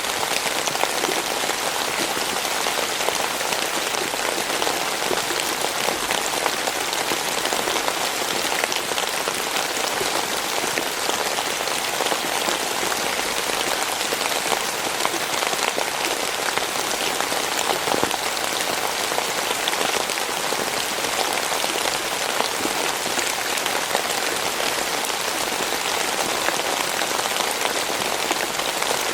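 Steady rainfall, an even hiss of many drops pattering on a surface.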